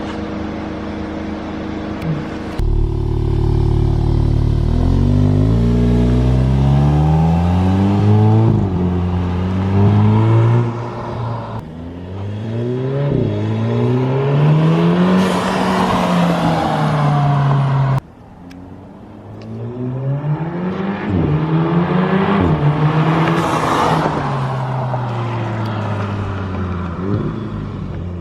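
Audi S3's turbocharged four-cylinder engine, with its turbo muffler deleted and an aftermarket turbo inlet fitted, accelerating hard through the gears. It runs steadily for the first couple of seconds, then grows louder. The engine note climbs repeatedly and falls back at each gear change, with a sudden drop in loudness about two-thirds of the way through.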